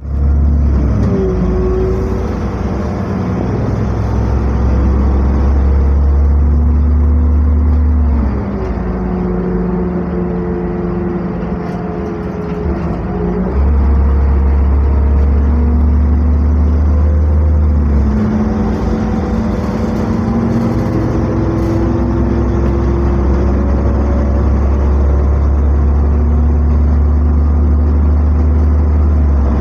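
NefAZ-5299 city bus heard from inside the passenger cabin while driving. The engine runs with a deep drone that drops away for a few seconds and comes back, twice, as it pulls and eases off. Whining tones rise and fall in pitch with road speed.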